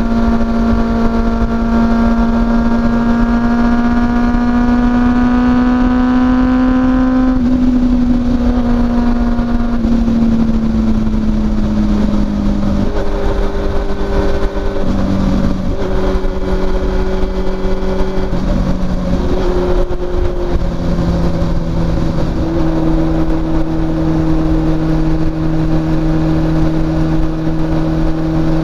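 Honda CB400SF inline-four engine heard through a WR'S slip-on muffler while riding at speed. The exhaust note climbs slowly for the first several seconds, then drops back in a few steps to a lower, steady drone as the revs come down.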